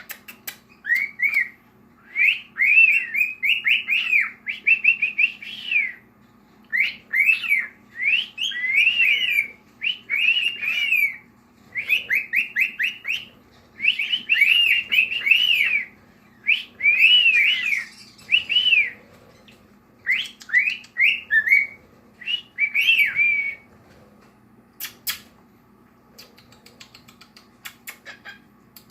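Male cockatiel whistling a warbling song in short repeated phrases of rising and falling notes, which stops after about 23 seconds.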